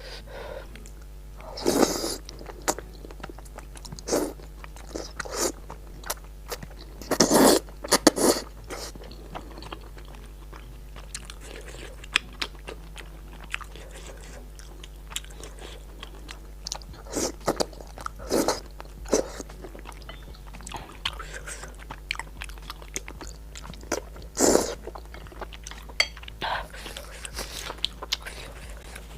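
Close-miked eating sounds: chewing and biting with irregular crunchy, wet bursts, the loudest about two seconds in, twice around seven to eight seconds, and again near twenty-four seconds.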